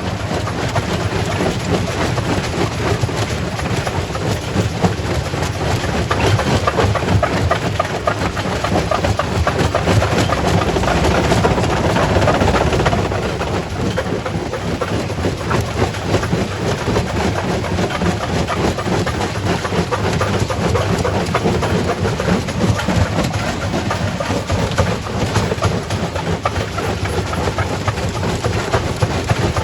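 Primary rock crusher running under load: a steady low rumble with a dense, continuous clatter of rock knocking and cracking as it is broken. The noise is somewhat louder for several seconds in the middle.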